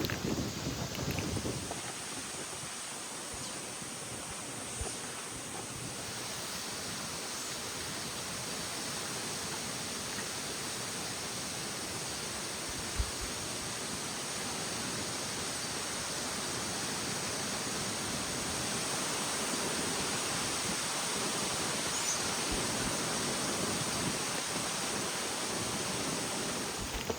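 Steady outdoor ambient hiss with a high, even drone that sets in about a second in and holds throughout.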